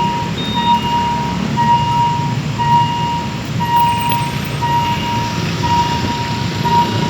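Railway level-crossing warning alarm beeping about once a second with a steady pitched tone, over a continuous low diesel engine rumble.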